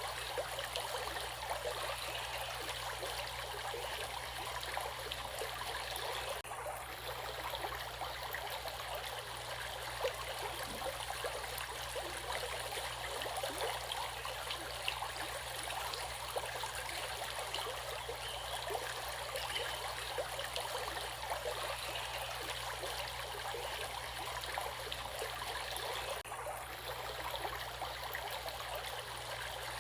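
A stream of water running steadily with an even, unbroken rush.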